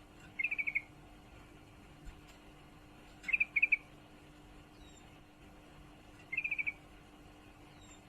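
Female yellow-vented bulbul (trucukan) in breeding condition giving short chattering calls to attract a male: three quick bursts of four or five notes each, about three seconds apart. A faint steady hum sits underneath.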